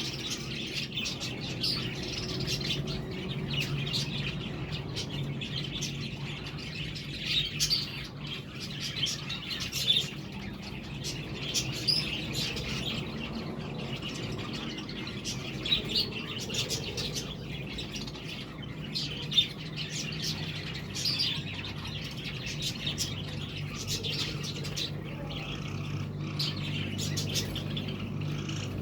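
Budgerigars chattering: quick, busy chirps and warbles with no pause, over a steady low hum.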